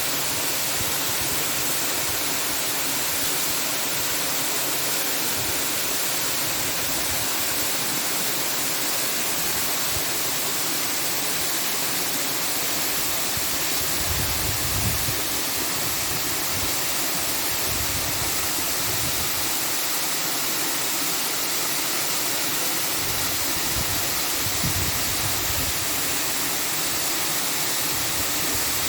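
Steady, loud rushing hiss with no pitch or rhythm, and a few soft low rumbles about halfway through and again near the end.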